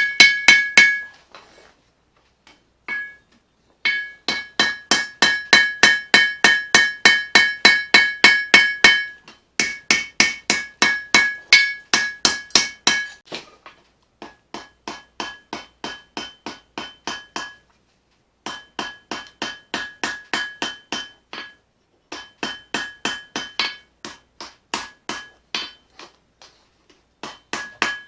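Hammer blows forging a leaf-spring steel blade on an anvil, about four a second, each strike ringing. The blows come in runs of a few seconds broken by short pauses, with some runs quieter than others.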